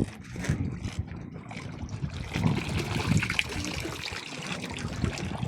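A camel drinking, with water sloshing and trickling in irregular splashes.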